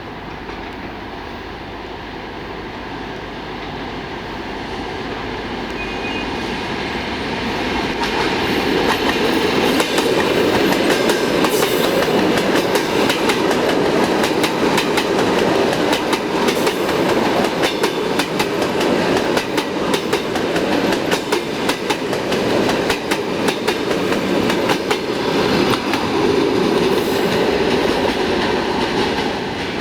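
EP2D electric commuter train approaching and passing, growing louder over the first several seconds. Its wheels then clatter over the rail joints in a rapid, continuous run of knocks until it eases off near the end.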